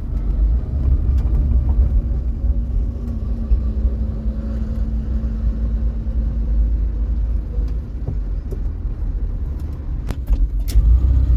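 A 1975 Vauxhall Viva HC driving along, a heavy steady low rumble of engine and road with a faint constant hum over it. A few sharp clicks or knocks come near the end.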